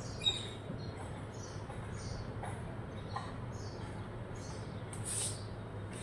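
Birds chirping: a steady series of short, high calls about two a second, with a louder, harsher burst about five seconds in.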